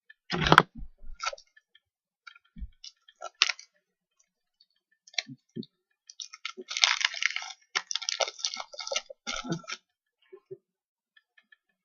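Trading cards and their packaging being handled: scattered light clicks and a knock about half a second in, then a spell of crackling and rustling from about six and a half seconds to nearly ten.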